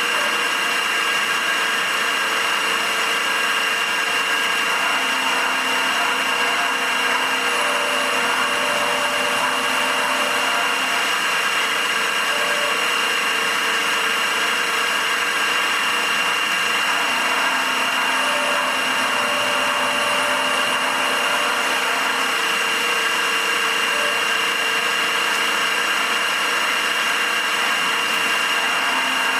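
Milling machine running steadily with an end mill cutting a metal part, with a steady high whine.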